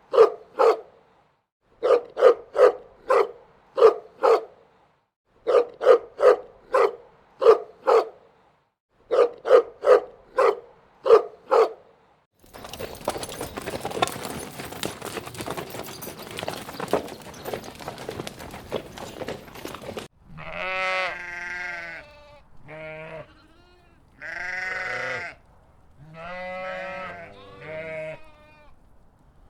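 A dog barking in quick bursts of four, repeated about every two seconds. About twelve seconds in this gives way to some eight seconds of dense, noisy rustling, and from about twenty seconds in come several long, wavering bleats of sheep or goats.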